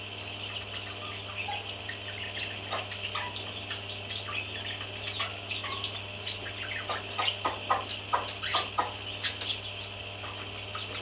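Baby parrots chirping: many short calls over a steady background chatter and a low hum, getting busier and louder about seven seconds in before settling again.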